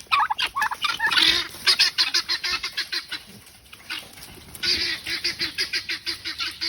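Mixed poultry flock of chickens, guinea fowl and turkeys calling excitedly as they are let out to free-range: a fast, harsh, repeated chatter. The calling drops off briefly in the middle and starts up again.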